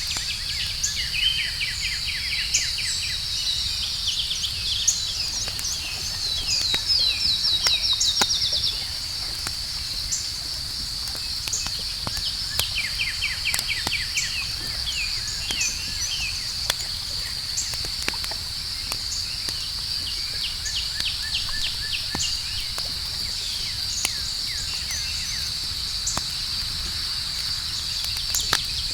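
Campfire crackling with scattered sharp pops over a low rumble, against a steady high chirring of night insects. Several bursts of rapid bird-like chirping trills come and go, the loudest lasting several seconds near the first third.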